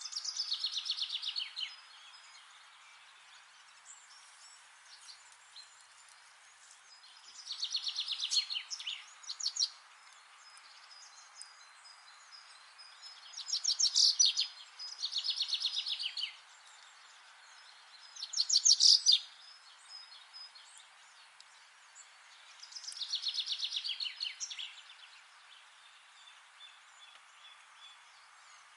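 A songbird singing: about six rapid trilled phrases, each falling in pitch and lasting one to two seconds, spaced a few seconds apart, over a faint steady background hiss.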